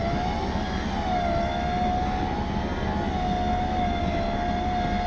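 Steady motor whine with a low rumble underneath, wavering slightly in pitch: a winch working under load to pull a vehicle out of snow.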